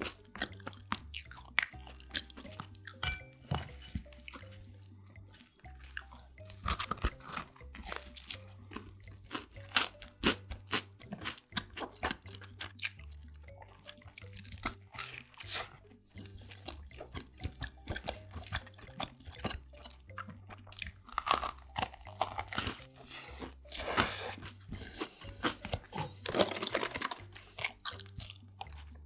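Close-miked chewing and biting of a soft sandwich, with many small wet mouth clicks. Near the end, a sip of milk tea through a straw from a carton.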